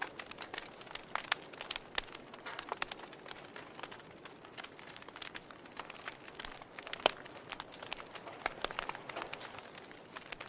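Wood fire crackling in a fireplace: irregular small pops and snaps over a soft hiss, with one sharper pop about seven seconds in.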